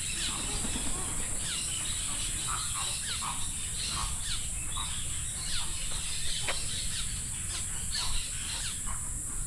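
Many birds chirping and calling, short quick calls overlapping one another, with a steady high hiss underneath.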